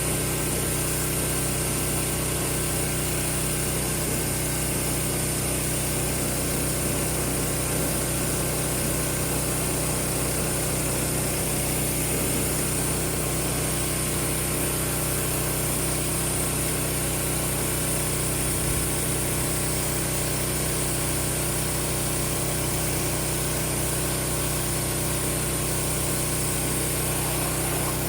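Pressure washer running steadily, with the constant hiss of water spraying from an undercarriage cleaner's nozzles.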